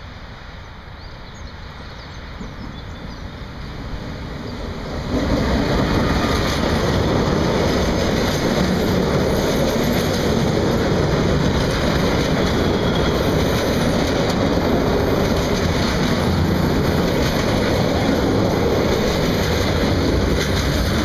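Short diesel-hauled freight train approaching and passing close by. The noise grows louder as the train nears, jumps up sharply about five seconds in as it comes alongside, then stays steady as the hopper and tank wagons roll past.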